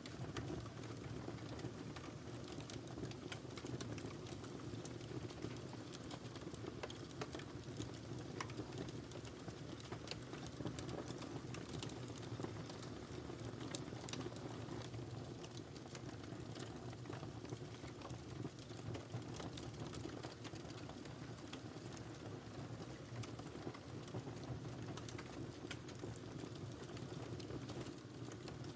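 Wood fire burning in a fireplace, crackling steadily with many small irregular pops over a low rumble of the flames.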